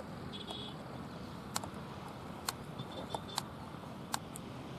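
Faint, short, high bird chirps over a steady outdoor noise, with about five sharp clicks scattered through.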